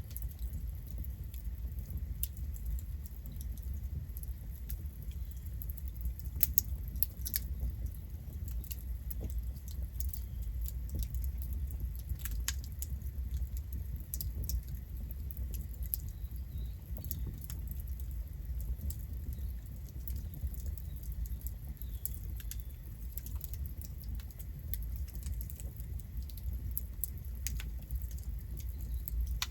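Wood fire burning: scattered sharp crackles and pops over a steady low rumble, with a few louder pops about six seconds in and about twelve seconds in.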